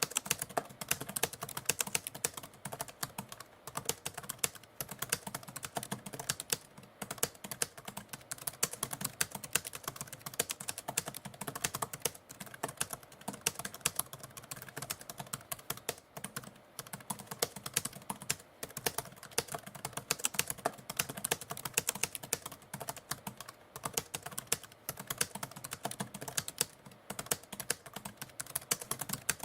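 Typewriter typing: a fast, uneven stream of key strikes, several a second, broken by brief pauses every few seconds.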